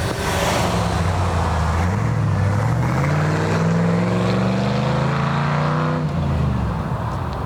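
Car engine accelerating hard, its pitch climbing steadily for about five seconds, then falling off sharply about six seconds in.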